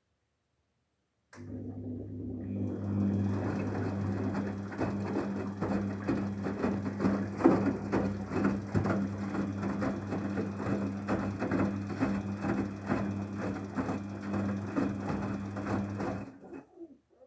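Daewoo DWD-FT1013 washing machine running its wash action: a steady motor hum with water churning and splashing in the drum. It starts suddenly about a second in and stops about a second before the end.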